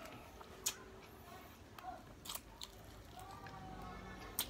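A person chewing fried chicken and rice close to the microphone, with mouth sounds and a few short sharp clicks scattered through.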